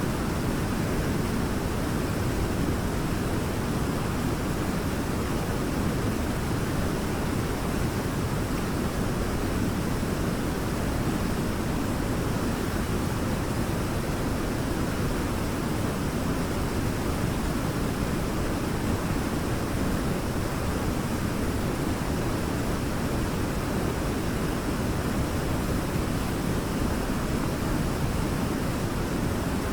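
Waterfall pouring steadily: a constant rushing noise, heaviest and deepest in the low range, with no breaks or changes.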